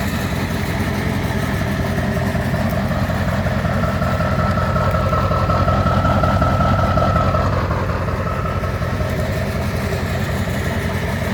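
Truck engine idling with a steady low throb. A thin high whine joins and the level rises slightly from about four to eight seconds in.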